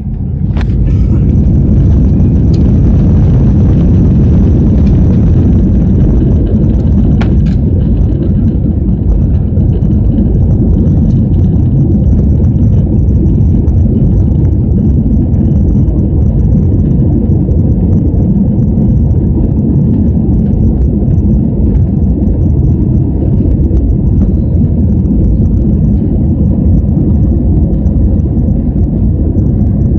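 Jet airliner's engines spooling up to takeoff thrust, heard from inside the cabin: a loud, steady low rumble and roar that swells within the first second and then holds through the takeoff run. A couple of light clicks come in the first several seconds.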